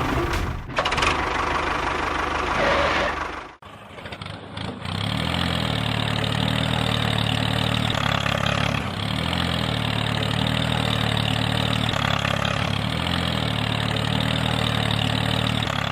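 Small engine running steadily at an even idle-like note. About three and a half seconds in the sound cuts off abruptly and restarts a second later.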